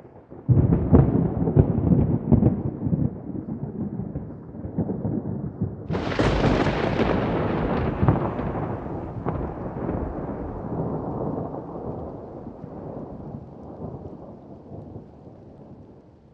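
Thunder: a crackling rumble breaks in about half a second in, then a sharp crack about six seconds in, followed by a long rolling rumble that slowly fades.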